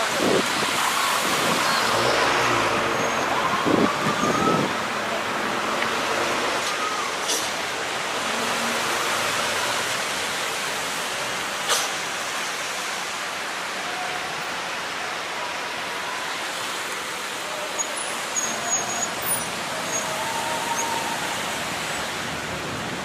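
Steady rushing outdoor noise, with faint distant voices in the first few seconds and two short clicks.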